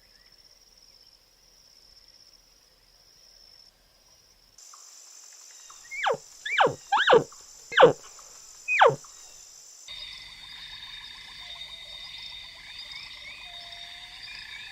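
Animal calls over a steady high insect-like buzz: five loud, quick calls that each fall sharply in pitch, then a different chorus of steady high tones and many short chirps.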